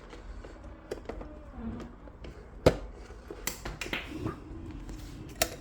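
Scattered plastic clicks and knocks from a coffee maker's parts being handled, with one sharper knock about halfway through.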